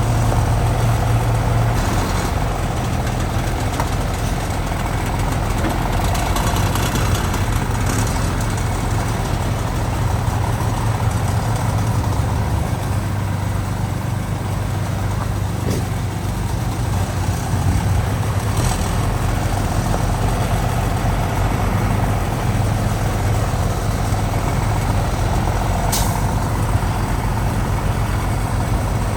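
Heavy diesel engine of earthmoving equipment running steadily, with a few scattered clanks and a sharp click near the end.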